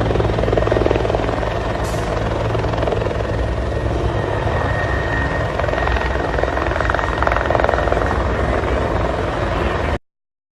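Helicopter in flight: steady rotor and engine noise with a low hum, cutting off abruptly near the end.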